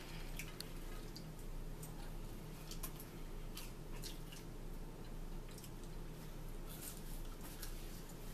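Eating sounds: wet chewing, smacking and small clicks from cheeseburger and fries being eaten, scattered irregularly over a steady low hum.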